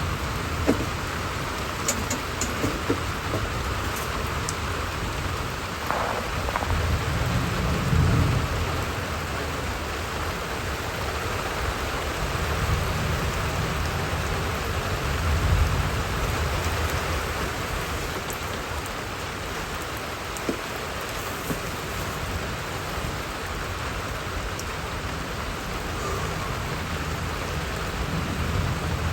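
Steady rain falling, with low rumbles of thunder swelling up about eight and sixteen seconds in.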